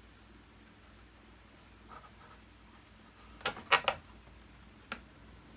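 Hands working a stiff blue wire's connector off the terminal of a vacuum cleaner motor: a quick cluster of sharp clicks and scrapes about three and a half seconds in, and one more short click near the end, over quiet room tone.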